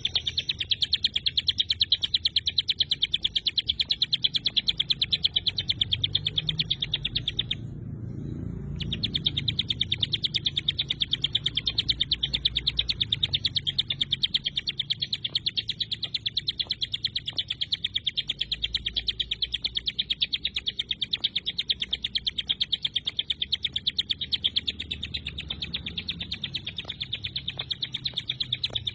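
Ciblek gunung (mountain prinia) singing a long, rapid run of sharp, evenly repeated high notes, the dense 'tembakan rapat' song style. The run breaks off for about a second around the 8-second mark, then resumes.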